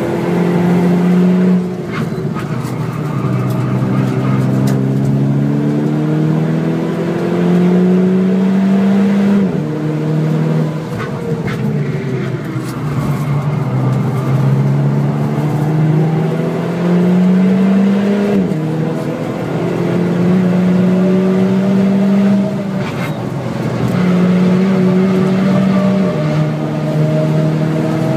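Turbocharged 2.0 TSI four-cylinder of a Stage 2 tuned VW Scirocco, heard from inside the cabin while being driven hard on track. Engine pitch climbs steadily through the revs and drops suddenly at gear changes, most sharply about nine and eighteen seconds in.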